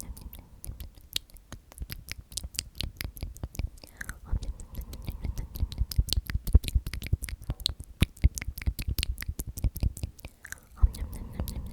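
Close-miked ASMR mouth sounds: a rapid, dense run of wet lip and tongue clicks from the word 'omnomnom' repeated in a whisper.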